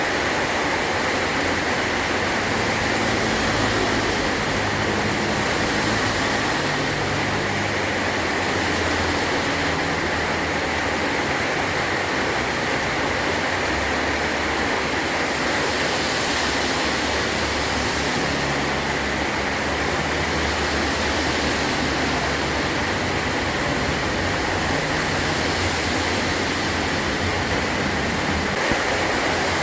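Heavy rain falling steadily on a metal roof, a dense even hiss.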